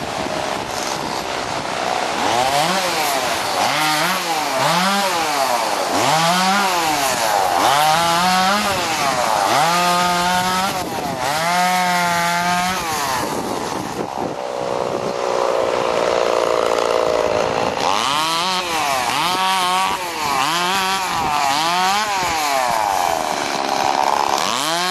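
Two-stroke chainsaw revving up and down over and over, its engine pitch rising and falling about once a second. Around the middle it is held at high speed for a couple of seconds.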